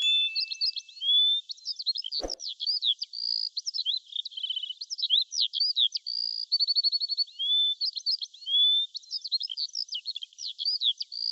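Birds singing: a busy run of short chirps, fast trills and rising whistles that goes on without a break. A click comes a little over two seconds in.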